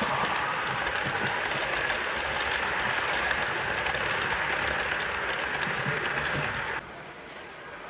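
Model train running on the layout track: a steady whirr of a small electric motor and gearing with wheel rumble over the rails. It cuts off suddenly near the end, leaving a quieter background.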